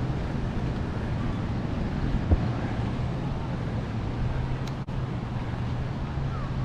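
Wind rushing over a chest-mounted action camera's microphone while riding an e-bike, over a steady low hum, with a single knock about two seconds in.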